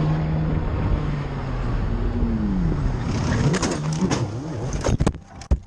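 A motorcycle engine running, steady at first and then its pitch rising and falling as the revs change, over a rush of wind noise. A few sharp knocks near the end as the engine sound falls away.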